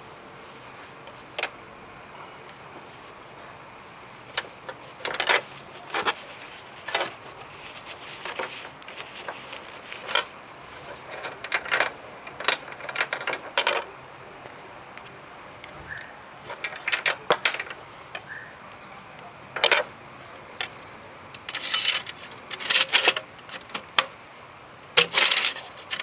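Irregular sharp clicks and clatter of hard objects being handled, some single and some in quick clusters, over a faint steady background hiss.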